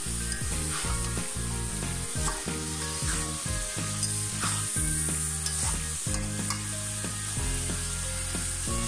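Ash gourd and shrimp sizzling in hot oil in a pan while a metal spatula stirs and scrapes through them, with several short scrapes, as the vegetables are slow-fried. Low steady tones that shift in pitch run underneath.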